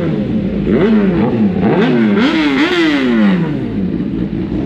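Superbike engine revved in a string of quick throttle blips, about five or six rises and falls in pitch. The last rev is held a little longer and sinks slowly back to a steady idle.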